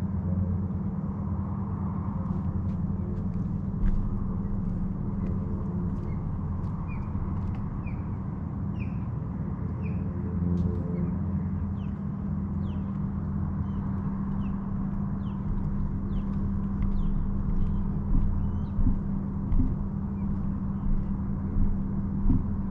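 A boat engine's steady low drone, with a small bird giving many short chirps over it from about a third of the way in, and a few low thumps near the end.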